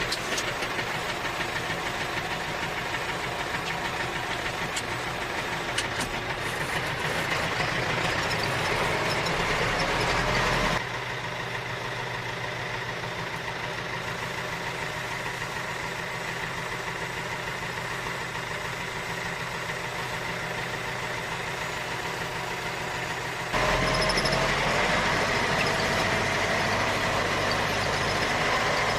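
Tractor engine running steadily, with a steady low chug and a held whine above it. The sound changes abruptly twice, about a third of the way in and again about four-fifths of the way in, as if cut from one recording to another.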